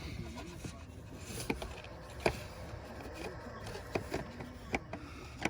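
A handful of sharp clicks and light knocks from a new fuel filter and its housing being handled and seated by hand, spaced irregularly over a low background hum.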